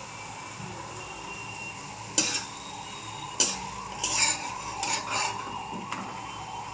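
A metal spatula knocking and scraping against a frying pan several times, with a steady sizzle of food frying in oil underneath.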